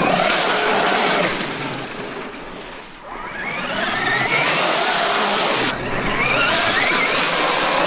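Traxxas X-Maxx RC monster truck's brushless electric motor whining as it is driven. The pitch and loudness fall over the first few seconds, then climb again and hold high.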